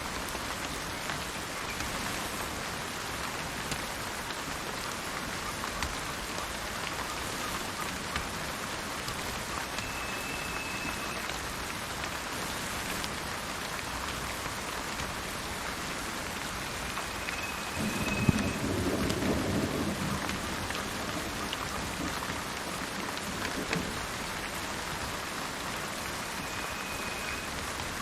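Steady rain falling, with a short rumble of thunder about two-thirds of the way through. Three faint, brief high whistled bird notes sound at intervals over the rain.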